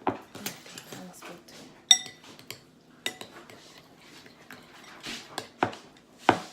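Kitchen utensils and dishes knocking and clinking in irregular strokes, with one clear ringing clink about two seconds in and sharper knocks near the end.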